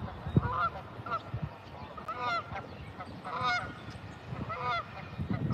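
Geese honking, about six short calls spread a second or so apart, over a low rumble.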